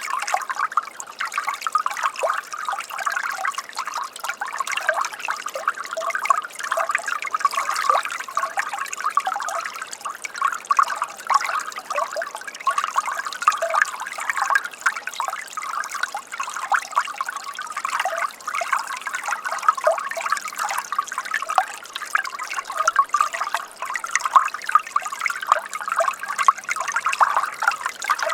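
Shallow running water trickling and gurgling steadily, a dense patter of small splashes with no pause.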